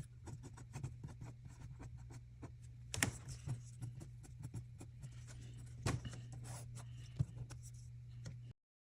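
Quick, light scratching and tapping strokes of a hand tool on a surface, like writing or sketching, over a steady low hum. A few strokes stand out louder, about three and six seconds in, and all sound cuts off suddenly near the end.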